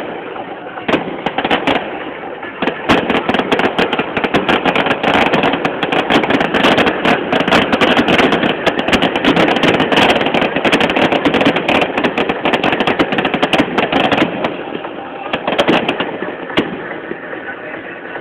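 Fireworks going off in a dense, rapid barrage of cracks and bangs. It builds a couple of seconds in, and near the end it thins to a few scattered bangs.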